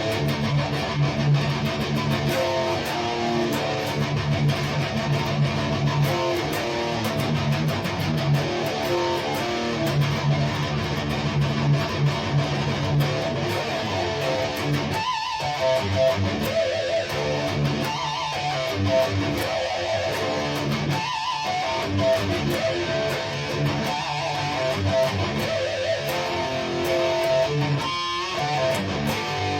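Electric guitar played through a Mesa Dual Rectifier tube amp fitted with EL34 power tubes and ECC83 preamp tubes: continuous rock/metal riffing, broken by a few short stops.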